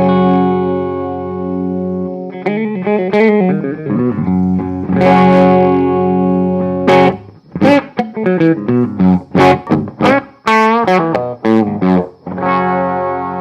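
Electric guitar with distortion, played through the M'Amps 60 W pocket power amp (an EF95/6J1 pentode valve stage driving a Class D output) into a guitar speaker. It starts on a ringing held chord, moves into a run of quick notes, then plays a string of short, choppy chord stabs with brief gaps, and ends on another held chord.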